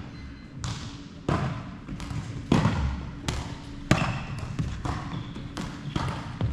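Hits and bounces of a rally in a doubles racket-sport match: sharp strikes come irregularly, one roughly every half second to a second, some much louder than others.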